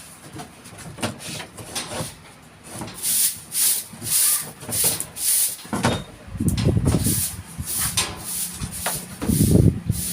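Handsaw cutting through wood in steady back-and-forth strokes, about two a second. A couple of heavier wooden thuds come in between.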